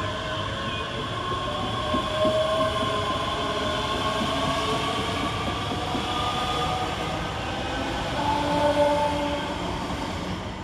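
Two coupled Class 385 electric multiple units pulling out of the station: a steady rumble of wheels on rail, with the traction motors' whine rising slowly in pitch as they gather speed.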